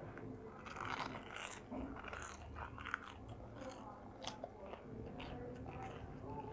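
Close-miked biting and chewing of a crispy deep-fried kurkure momo, with irregular crunches.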